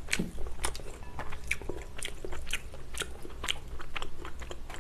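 A person chewing chewy jjolmyeon noodles close to the microphone: a run of small, irregular wet mouth clicks.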